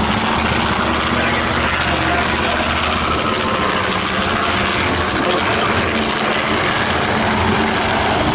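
Monster truck engine idling, loud and steady; its deepest note drops away about three seconds in.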